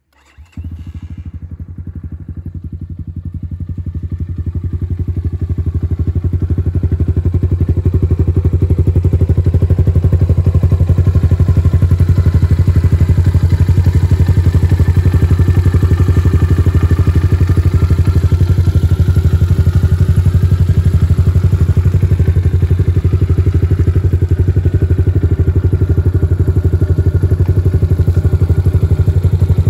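Leramotors Killer 250 cc pit bike's air-cooled single-cylinder four-stroke engine running at a steady, even pulse. It cuts in suddenly about half a second in, grows louder over the first several seconds, then holds steady.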